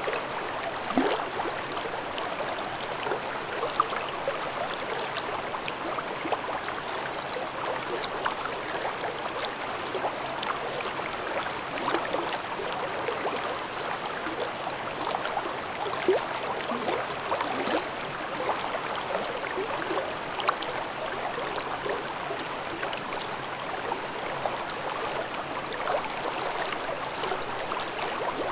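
Mountain stream babbling and gurgling over rocks: a steady rush of water with small irregular splashes.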